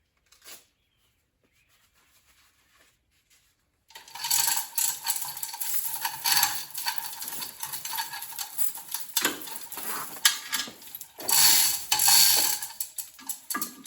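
Metal clattering and ratcheting clicks, starting suddenly about four seconds in after near silence.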